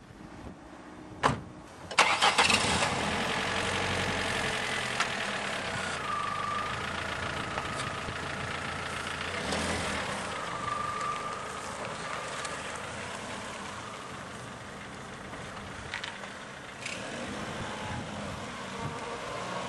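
A click, then about two seconds in a car engine starts with a loud burst and keeps running steadily.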